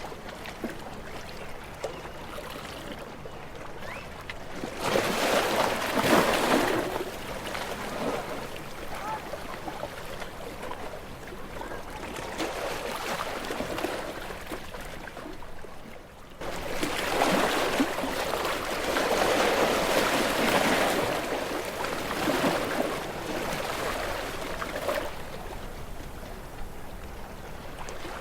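Sea waves washing against shoreline rocks. Two bigger waves surge in, about five seconds in and again from about sixteen seconds on, over a steady wash of water.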